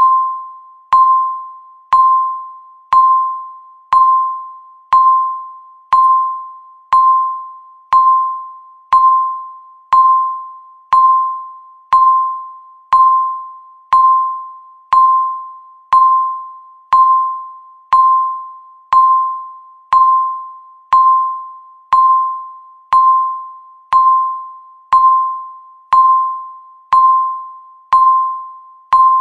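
Countdown timer beep sounding once a second, marking each second: a single short mid-pitched tone that starts with a sharp click and fades away before the next.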